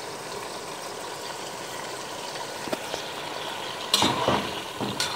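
Chicken frying in oil in a pot, sizzling steadily. About four seconds in there is a sudden louder burst of sizzling and crackle as the cumin and nigella seeds go into the hot oil.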